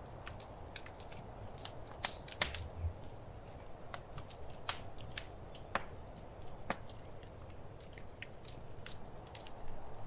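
Wood fire crackling in a fireplace: irregular sharp pops and snaps, a few louder ones about two and a half seconds in, over a steady soft hiss.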